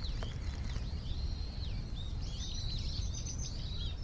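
Small birds chirping and twittering in quick short notes, busier in the second half, over a steady low background rumble.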